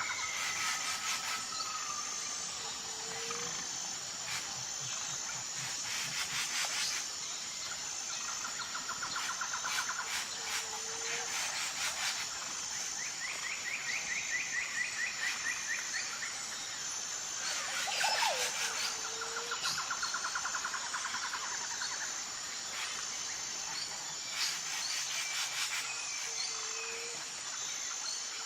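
Several birds singing in a dawn chorus: repeated rapid trills and clusters of chirps, with a short low call about every eight seconds, over a steady high-pitched insect trill.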